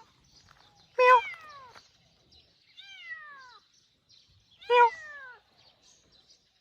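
A kitten meowing three times, each call falling in pitch; the first and last are the loudest.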